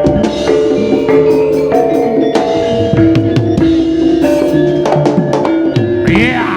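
Javanese gamelan music for a jaranan Senterewe dance: drums and tuned mallet percussion play steadily with many drum strokes and ringing held notes. Near the end a voice begins singing with wavering, sweeping pitch.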